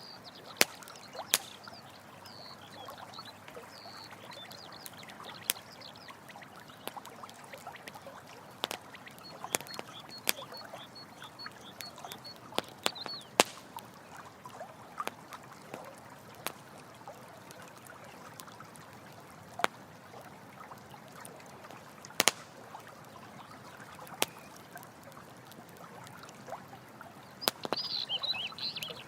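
Running stream water flowing steadily, with a campfire giving sharp crackles and pops every second or two. High, short chirping calls sound through it: a quick even run of them about ten seconds in and a louder cluster near the end.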